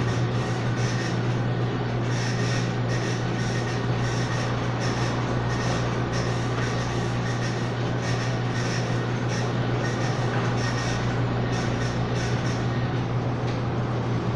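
A steady low mechanical hum with an even rushing hiss over it, unchanging throughout.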